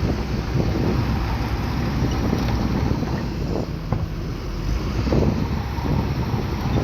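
Bulldozer's diesel engine running steadily under work, with wind buffeting the microphone.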